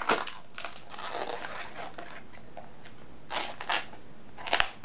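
Latex modeling balloon rubbed and squeezed between fingers, giving scratchy rubbing squeaks, with a few sharper squeaks near the end.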